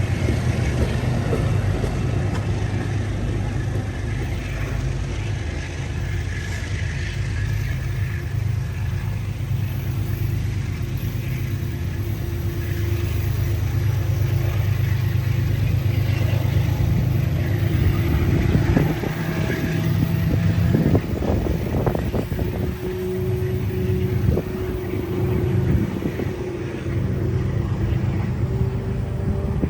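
Heavy diesel engine running with a steady low rumble that eases after about 20 seconds, with a few sharp knocks and a steady tone in the last part.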